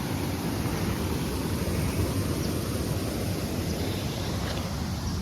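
Steady rushing outdoor noise with a fluttering low rumble of wind buffeting the microphone.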